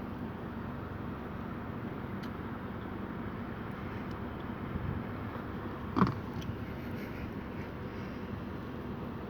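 A car's engine and cabin noise, a steady low hum, with one short sharp knock about six seconds in.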